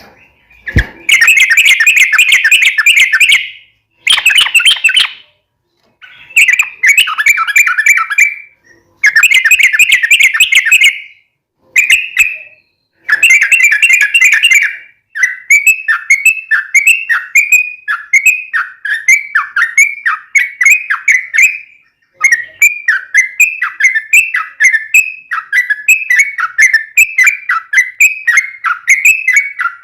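Yellow-vented bulbul (trucuk) singing loudly: bursts of rapid chattering song broken by short pauses, then from about halfway a steady run of quick, repeated down-slurred whistled notes, about two a second.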